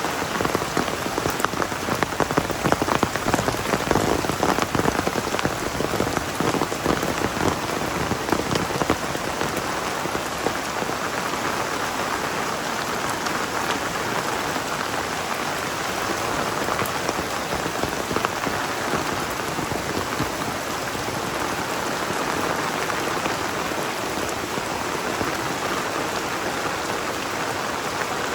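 Heavy rain falling steadily, a dense even hiss of drops striking the ground, with a spell of louder, sharper drop impacts in the first third before it settles.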